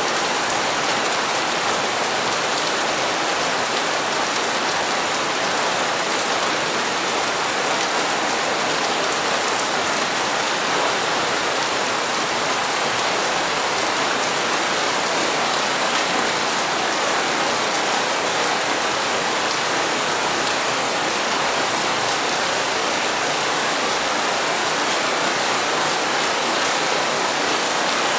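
Steady, even rain falling, a dense hiss of drops on hard surfaces.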